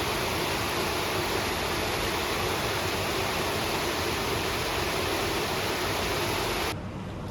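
Steady, even rushing noise with no tones in it, cutting off abruptly about seven seconds in.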